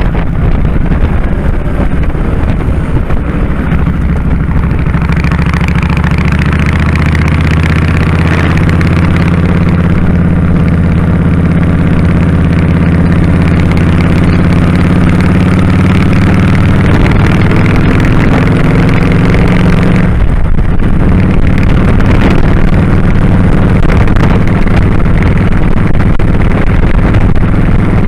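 2001 Kawasaki Drifter 1500's V-twin engine running under way, its note climbing slowly as the bike gathers speed. About two-thirds of the way through the sound dips briefly, then the engine runs on at a steady pitch.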